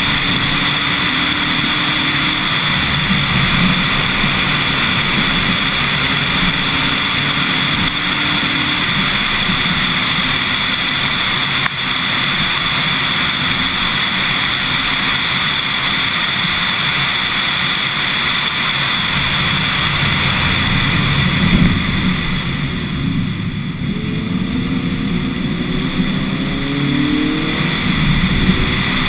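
Lotus Elise S1 111S's 1.8-litre Rover K-series VVC four-cylinder engine running under load up a mountain road, mixed with a steady rush of wind and road noise. About 22 seconds in the engine note drops away briefly, then climbs again through rising revs.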